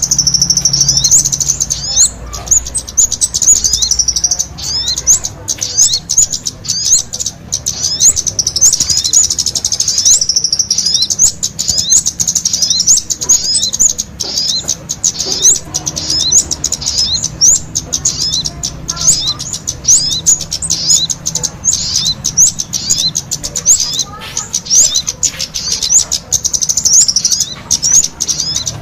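Kemade and sogon songbirds singing together in a continuous stream of rapid, high-pitched chirps and short sweeping trills.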